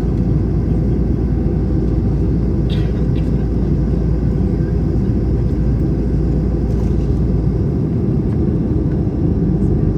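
Airbus A321 cabin noise: a steady, loud low rumble of the jet engines and airflow, with a faint steady hum on top. A few faint clicks come about three seconds in and again around seven seconds.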